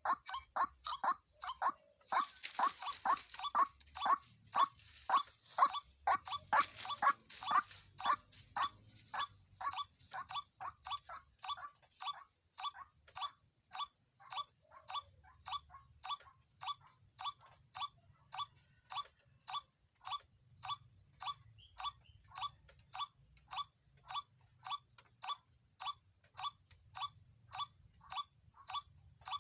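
White-breasted waterhen calling over and over, a short repeated call about two times a second, louder and harsher for the first several seconds, then steadier.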